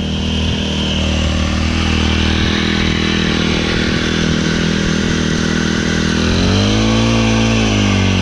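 Small outboard motor running steadily, just started from cold with the choke off. About six seconds in it revs up briefly, then settles back down.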